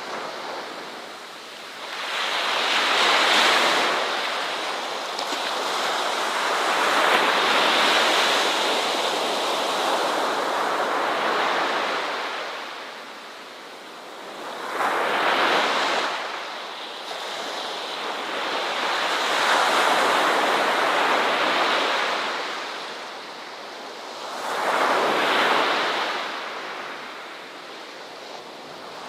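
Ocean waves breaking on a shore, the surf swelling and fading in slow surges, about five in the span, each wash several seconds long.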